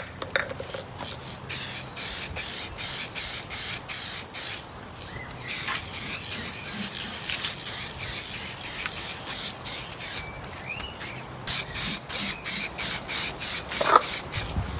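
Protective coating being sprayed onto a wooden birdhouse: short hissing squirts, about two or three a second, in three runs with brief pauses between them.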